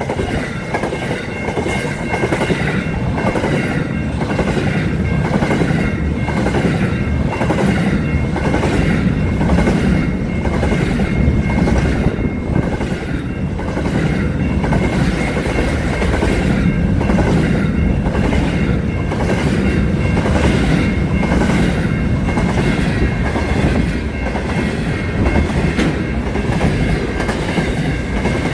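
Aurizon freight train wagons rolling past close by, the wheels clicking over the rail joints in a steady clickety-clack over a continuous rumble, with a steady high whine above.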